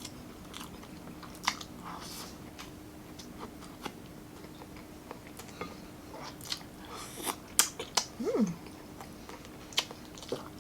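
Close-up chewing of grilled pork barbecue, with scattered wet mouth clicks and smacks over a faint steady hum. A short falling pitched sound comes about eight seconds in.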